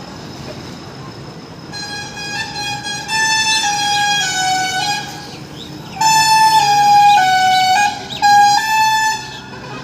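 Musical vehicle horn playing a short tune of stepping notes, sounded in several loud bursts over a faint traffic hiss.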